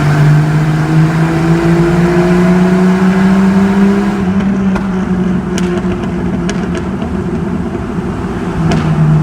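Jeep Cherokee XJ engine through a new aftermarket exhaust, pulling under acceleration: its note climbs steadily for about four seconds, then holds and eases off, dropping back near the end. A few sharp clicks come in the second half.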